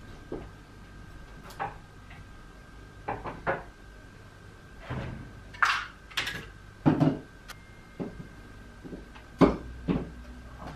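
A series of separate knocks and clacks, some sharp and some duller, with the loudest around the middle and near the end, over a faint steady high hum: everyday objects being handled and set down in a small room.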